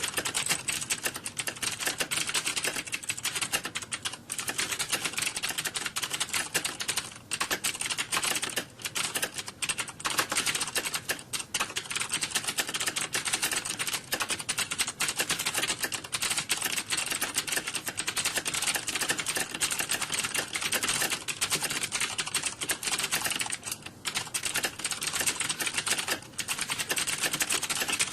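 Computer keyboard typing: rapid, continuous clicking of keys with only a few brief pauses.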